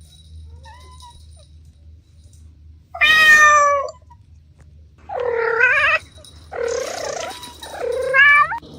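A cat meowing four times, starting about three seconds in; the first meow is short and loud, and the later ones are drawn out and wavering.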